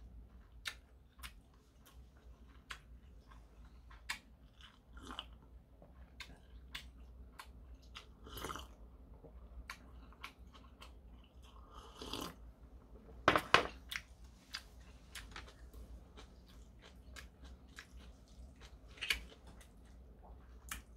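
Close-up eating sounds: a person chewing food with small wet mouth clicks. There are sips from a mug about 8 and 12 seconds in, and a sharp double knock, the loudest sound, about 13 seconds in.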